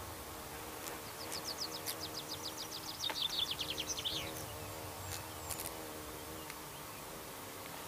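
A small songbird's rapid trill of about three seconds, its quick notes sliding lower and ending in a short flourish, over a faint steady hum.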